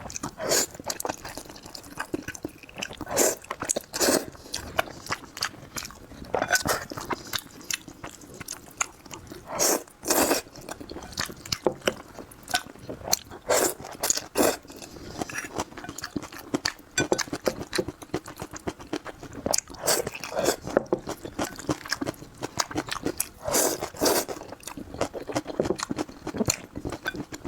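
A person eating close to the microphone: irregular chewing and biting, with many short sharp clicks and wet mouth sounds throughout.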